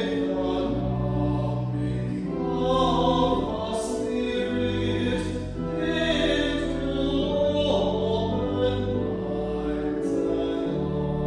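Choir singing slow sacred music over sustained instrumental accompaniment, the chords changing every second or so.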